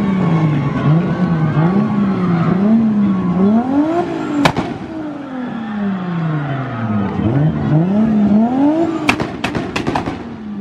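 Drift car's engine revving up and down repeatedly, climbing and then falling away twice. Sharp exhaust backfire bangs cut through it, one about four seconds in and a quick run of four or five near the end.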